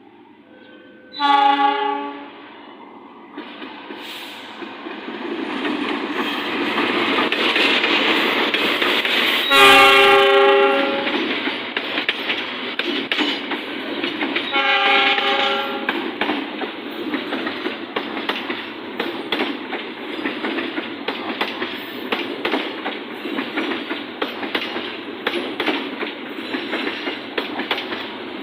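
Train horn sounding three times, a short blast, then a longer, louder one, then a third, as a train comes in and passes close by. The train's rumble builds and then gives way to a steady clickety-clack of wheels over rail joints as the carriages roll past.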